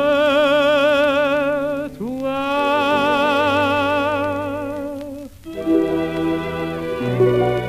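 Old 1930s French chanson recording: a male singer holds the song's last two notes with wide vibrato over an orchestra. About five and a half seconds in, the orchestra takes over with the closing chords.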